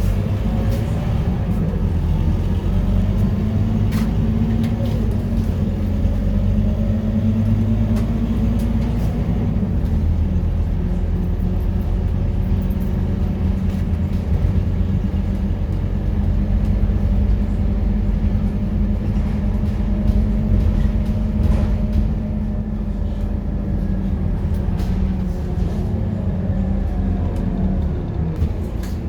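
Scania K230UB city bus's five-cylinder diesel engine running on the road under way. Its note holds, drops about ten seconds in, then climbs again as the bus slows and pulls away, over a steady low rumble.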